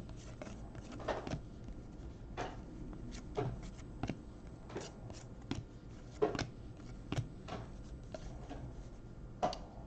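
Baseball trading cards being flipped through and slid against one another by hand: an irregular string of faint, soft clicks and swishes.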